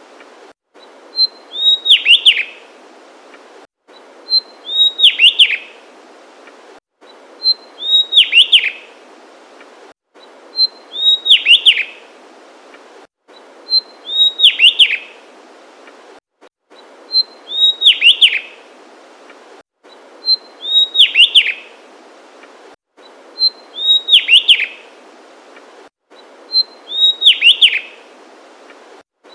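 Javan tesia singing the same short phrase over and over, about every three seconds: one high note, then a quick run of four or five notes falling in pitch.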